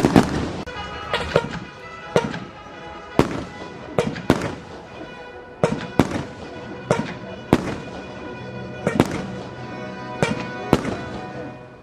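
Fireworks going off in a quick series of sharp bangs, mostly under a second apart, some in close pairs, with music playing underneath.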